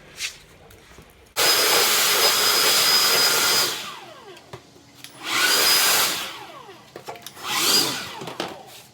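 Three bursts of loud rushing, hissing air with a thin high whistle in it: the first starts suddenly about a second and a half in and lasts about two seconds, then two shorter bursts near the middle and near the end.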